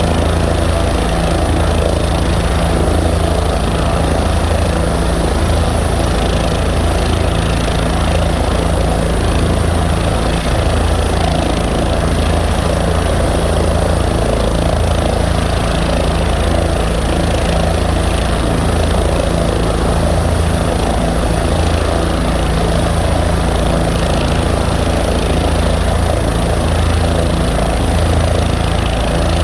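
Engine of the Minnesota State Patrol aircraft N119SP running steadily on the ground, a loud, unchanging drone with no rise in power.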